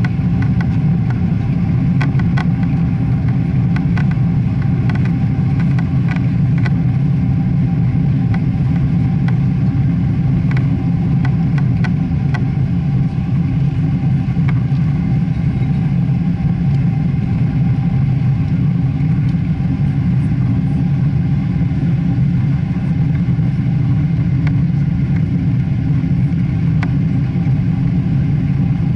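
Steady, loud jet-engine rumble of a Boeing 777, deep and even throughout, with a few light clicks or rattles in the first dozen seconds.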